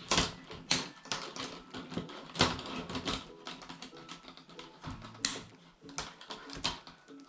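Irregular clicks and taps, a few of them sharp and loud, over soft background music.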